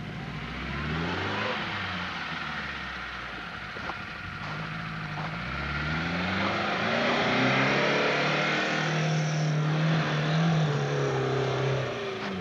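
Lada Niva engine revving hard as the car accelerates up a snowy slope under load. Its pitch climbs, drops back around a gear change, climbs again and is held at high revs in the second half, over a broad rushing hiss.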